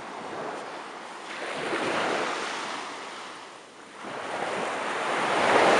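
Ocean surf washing onto a beach: a wave swells and fades about two seconds in, then a louder one builds near the end.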